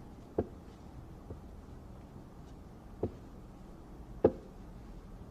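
A few short, sharp knocks over quiet room tone: three clear ones, about a second or more apart, and a fainter one between the first two, the loudest near the end.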